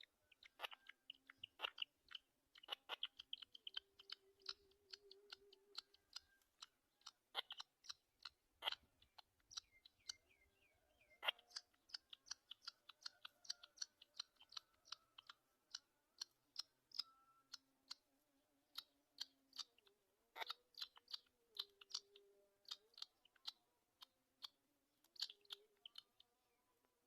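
Black-winged kites pecking at and tearing a mouse: faint, rapid irregular clicks and crunches, with runs of short high peeps.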